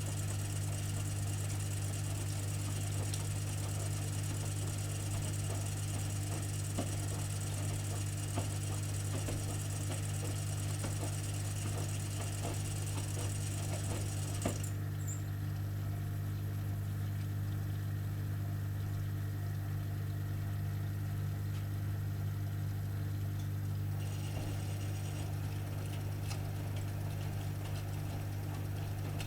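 AEG Öko-Lavamat washing machine running with a steady low hum and a few light clicks. A higher hiss over it cuts off abruptly about halfway through, and part of it comes back faintly near the end.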